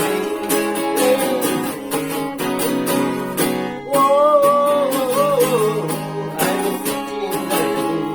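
Acoustic guitar strummed in a steady rhythm, playing the song's instrumental intro. About four seconds in, a wavering melody line rides over the strumming for a couple of seconds.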